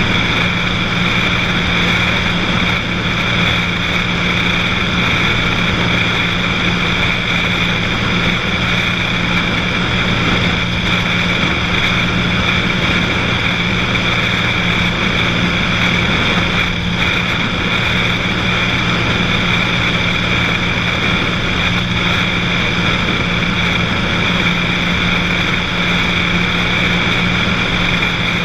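Cessna 182's piston engine and propeller running at a steady, unchanging drone.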